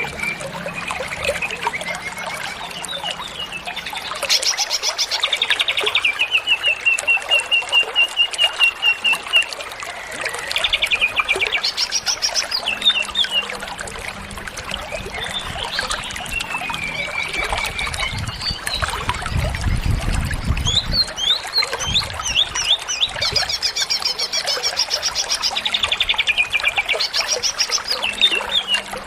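Greater green leafbird (cucak ijo) singing energetically in full song: repeated phrases of rapid high trills and whistled notes, with a long, even trill a few seconds in.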